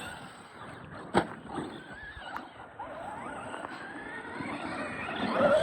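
Motors of RC monster trucks whining, rising and falling in pitch as they are throttled, with a sharp knock about a second in and a louder rising whine near the end.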